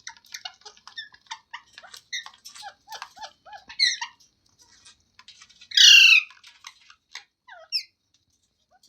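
A green ringneck parrot chattering in quick short chirps and clicks, then giving one loud harsh squawk about six seconds in, followed by a couple of short calls.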